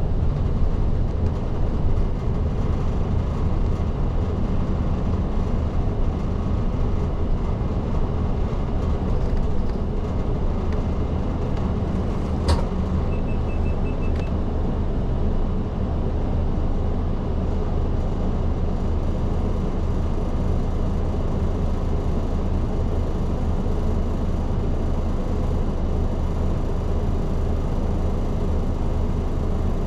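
Isuzu Erga city bus under way, its diesel engine and road noise a steady drone heard from inside the cabin. About midway there is one sharp click, followed by a brief run of quick high beeps.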